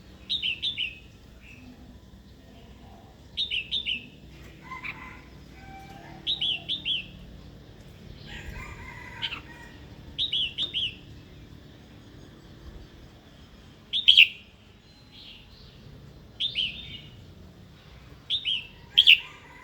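Female red-whiskered bulbul singing short, loud phrases of three or four quick notes, one phrase every two to three seconds. This is the female's challenging song that keepers use to rouse a captive male bulbul into singing and fighting.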